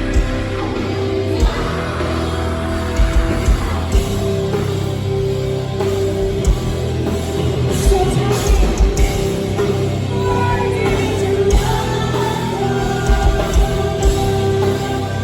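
A live metalcore band playing loud, with distorted guitars, drums and vocals. Quick runs of kick drum come through at several points.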